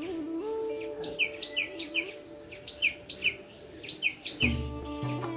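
Fast, regular bird chirping, short high notes in pairs about three a second, over background music with held tones; a bass line comes in about four and a half seconds in.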